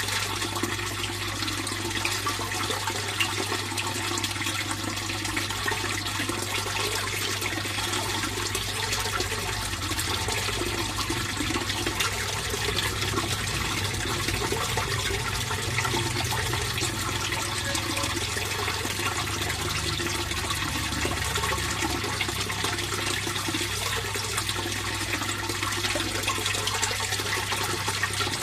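Water running and splashing steadily into a fish pond, a constant rushing flow with a low steady hum underneath.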